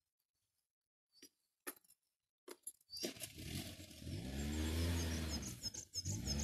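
A few small clicks, then about three seconds in a scooter engine starts, its pitch rising and then settling into a steady idle.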